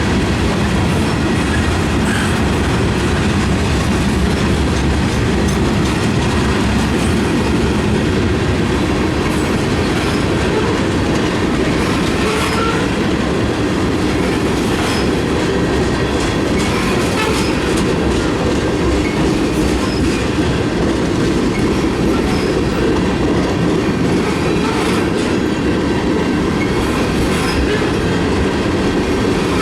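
Freight cars of a mixed freight train rolling past on the rails: a steady, loud rumble with the wheels clicking irregularly over rail joints.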